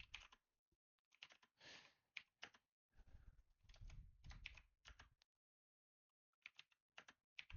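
Faint computer keyboard typing and clicking in short spurts, with silent gaps between them.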